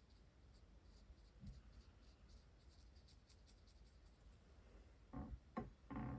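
Faint, repeated short strokes of a water-based brush marker tip on hot-press watercolour paper. A few louder soft knocks come near the end.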